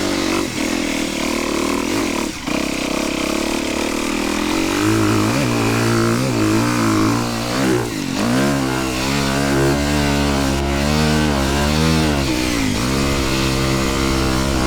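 Honda dirt bike's engine being ridden hard, revving up and easing off again and again with the throttle. Its pitch drops sharply about eight seconds in before climbing again.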